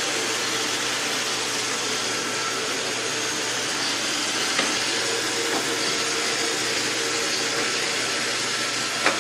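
Roomba robot vacuum running with a steady whir, broken by a couple of short sharp knocks, the loudest near the end.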